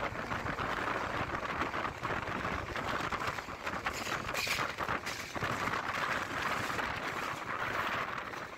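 Passenger train running along the track, heard from an open coach door: a steady rush of wheel and wind noise with the quick clicks of the wheels over the rails, and a brief hiss about halfway through.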